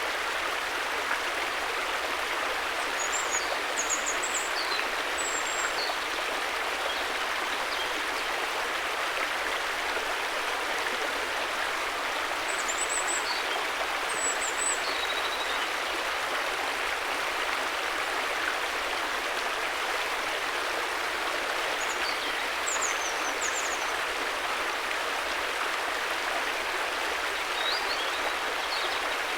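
River water rushing steadily in an even, unbroken hiss, with brief high chirps in a few short groups.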